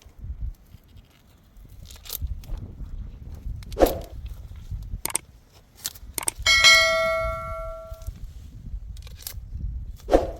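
A single metallic clang about two-thirds of the way in, a struck piece of metal ringing with several bell-like tones that fade over about a second and a half, among scattered short knocks.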